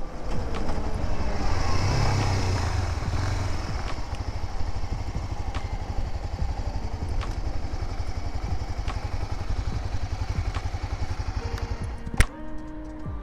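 Honda Dominator single-cylinder motorcycle engine running with a fast, even train of firing pulses, loudest about two seconds in. A sharp click comes near the end.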